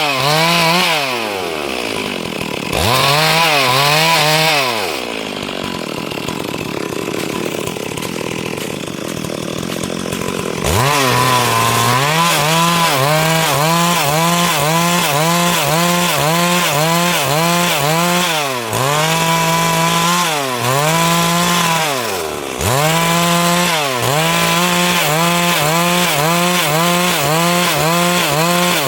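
Stihl MS 382 two-stroke chainsaw running at high revs while cutting wood. Its pitch falls and climbs again several times. It goes quieter for several seconds early on, then runs at steady high revs with brief dips near the end.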